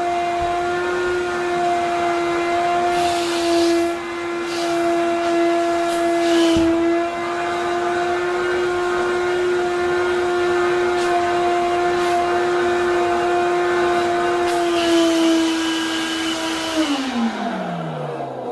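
Wet vacuum cleaner motor running at a steady pitch, with a few short bursts of hiss. Near the end it is switched off and its pitch falls as the motor winds down.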